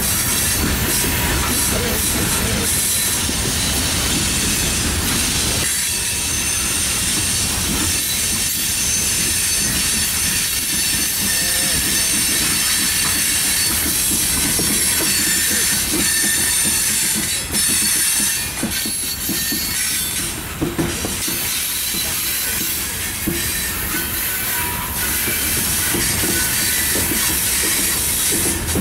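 Loaded coal hopper cars rolling past: a continuous rumble and clatter of steel wheels on rail, with a high, steady squeal from the wheels.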